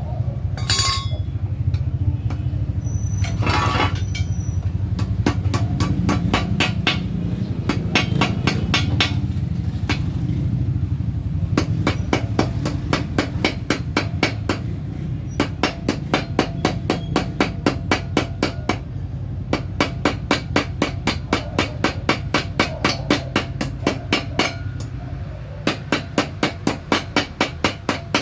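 Hammer striking sheet metal in quick runs of about four blows a second, shaping parts of a handmade jet-style muffler, with a steady low hum underneath.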